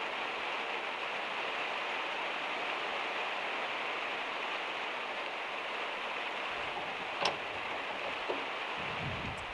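Steady heavy rain hissing on a van's metal roof. A sharp click stands out about seven seconds in, a fainter one a second later, and a brief low rumble comes near the end.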